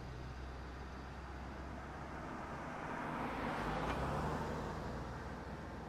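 Road ambience: a steady low rumble of traffic, with a vehicle passing by, swelling up about three seconds in and fading away again.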